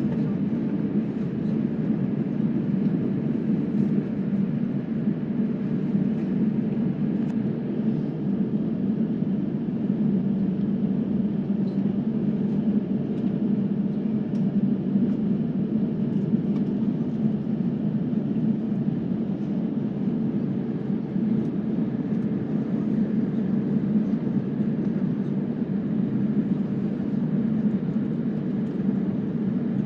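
Steady jet airliner cabin noise: the engines and airflow heard from inside the cabin as an even low rumble that does not rise or fall.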